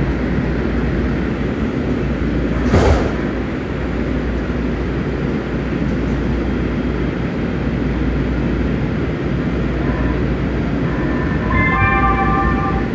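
Light rail train heard from inside the car as it starts off from a station, a steady low rumble throughout. A sharp knock comes about three seconds in, and a few steady higher tones sound near the end.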